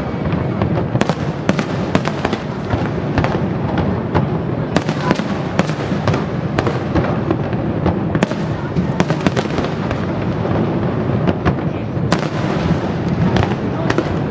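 Aerial fireworks display going off in rapid succession: many sharp bangs and crackles, several a second, over a continuous low rumble.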